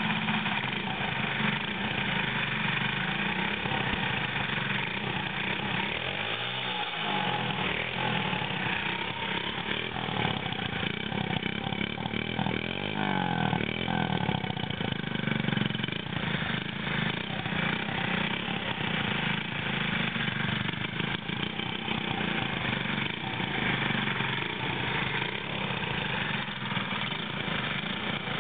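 Honda Monkey 50cc single-cylinder four-stroke engine running through a home-made exhaust, mostly steady at idle, with the pitch briefly rising and falling twice, about a quarter and about halfway through.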